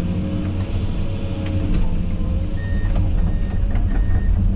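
Diesel engine of an earthmoving machine working steadily, heard from inside the cab, with a constant whine over the low rumble and a few knocks. From about halfway a short high beep repeats about twice a second, like a warning or travel alarm.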